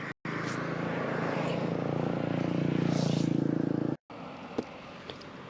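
A motor vehicle engine running steadily and growing louder for about four seconds, then cut off suddenly, leaving quieter traffic background with a single click.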